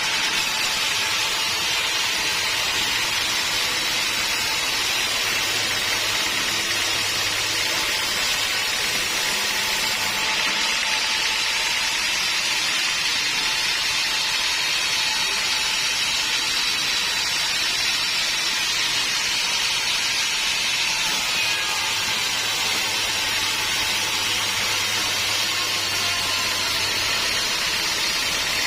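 Homemade band sawmill running, its blade sawing steadily through a teak log with an even, unbroken high hiss over a faint low motor hum.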